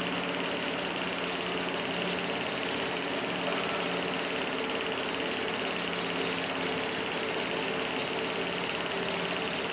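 Steady, unchanging hum of an engine or motor running in the background.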